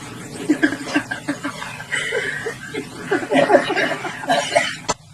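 A person chuckling and laughing in short, quickly repeated bursts, cut off suddenly near the end.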